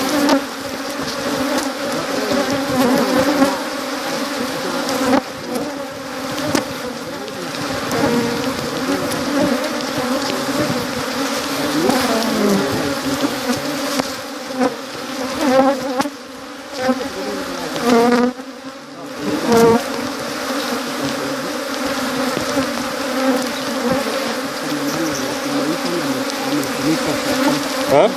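Honeybees buzzing in numbers around a hive: a dense, steady hum of many bees, with the pitch of single bees sliding up and down as they fly close past, easing briefly about two-thirds of the way through.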